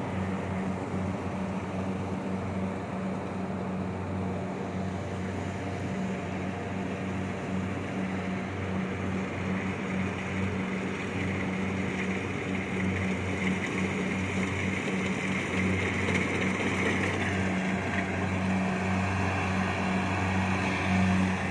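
Kubota DC70 Plus combine harvester's diesel engine running with a steady low hum and threshing noise, growing louder toward the end.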